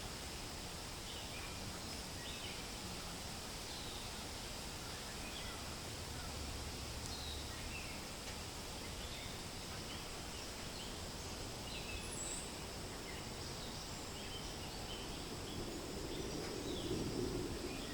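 Forest ambience: a steady hiss of wind through leaves with many short, scattered bird chirps throughout, and a louder rush of wind near the end.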